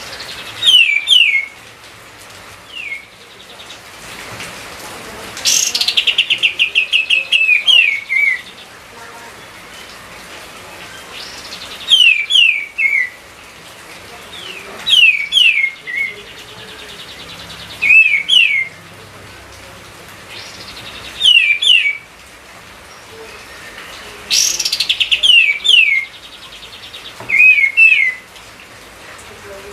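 Kapas tembak bird singing loudly: short phrases of two or three clear whistled notes sliding downward, repeated every few seconds. Twice a fast rattling series of notes runs for about two seconds, once about five seconds in and once near the end.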